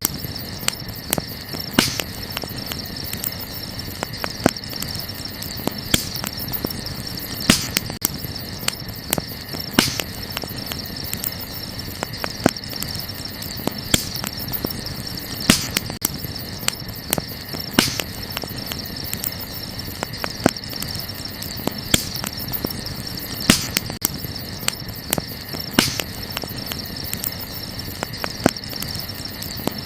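Wood campfire crackling, with sharp pops every second or so, over a steady high chirring.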